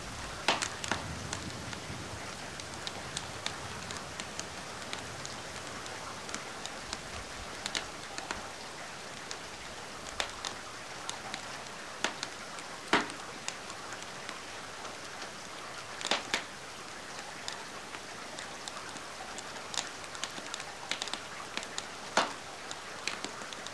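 Steady rain hiss mixed with a crackling wood fire, with sharp single pops and snaps every few seconds.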